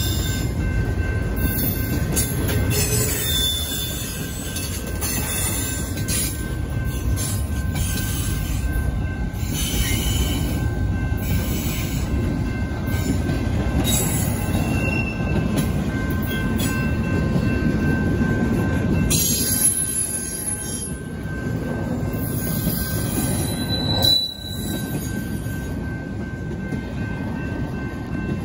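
Double-stacked container cars of a BNSF intermodal freight train rolling past over a grade crossing: a steady rumble and clatter of wheels on the rails, with brief high wheel squeals now and then.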